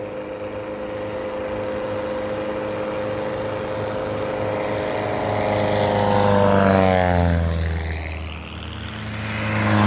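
Cub light-plane engines and propellers on low fly-by passes. One plane grows louder, passes about six to seven seconds in with a drop in pitch, and fades; a second pass swells and drops in pitch near the end.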